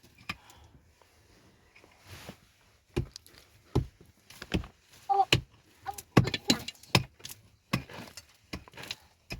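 An irregular series of sharp knocks and clacks, about a dozen, starting about three seconds in after a quieter stretch.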